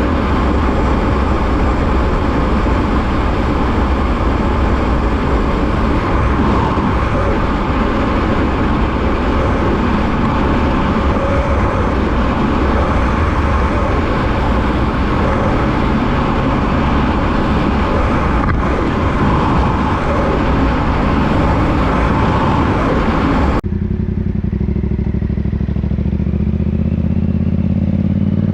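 Motorcycle riding on the road, its engine under a loud, even rushing noise. About 24 seconds in the sound cuts to another ride, with a steadier, lower engine hum and much less of the rushing noise.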